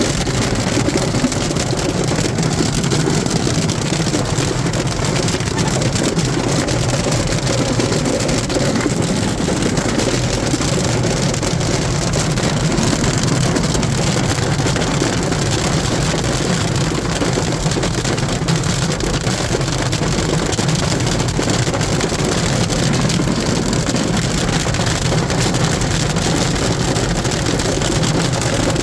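Hailstorm: hailstones falling steadily and striking hard surfaces, a dense, unbroken clatter of impacts mixed with rain.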